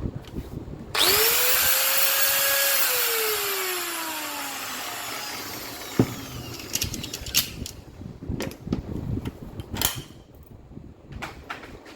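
Makita M9510 angle grinder switched on about a second in: the motor spins up at once to a high whine, runs for under two seconds, then is switched off and winds down with a falling whine over a few seconds. After that, a sharp click and some knocks and clatter of the tool being handled.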